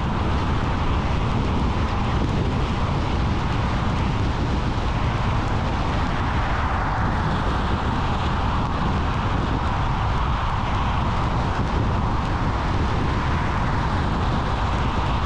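A car driving: steady road and tyre noise over a low engine rumble.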